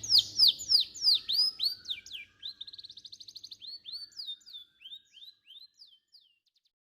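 Domestic canary singing: rapid trills of high, down-slurred whistled notes. The song is loud for the first two seconds, then fainter, and stops about six seconds in.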